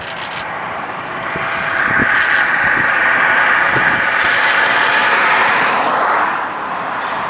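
Freight train rolling past: the steady rush of steel wheels on rail, with a few knocks, swelling about two seconds in and easing near the end.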